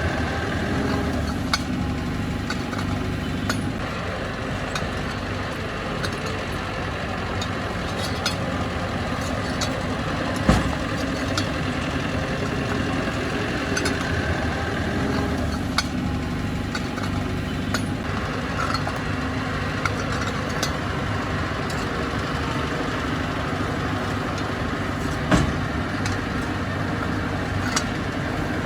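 Diesel engine of heavy earthmoving machinery running steadily, with scattered small clicks and two sharp clanks, one about ten seconds in and one near the end.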